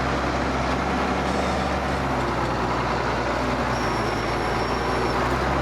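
Ford TW tractor's six-cylinder diesel engine running steadily under load while pulling a plough.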